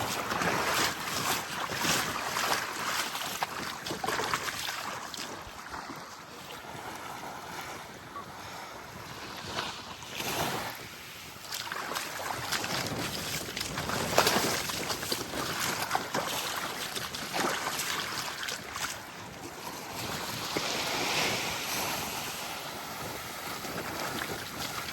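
Small waves lapping and washing on a sandy beach, with wind on the microphone; the wash swells and eases as the waves come in.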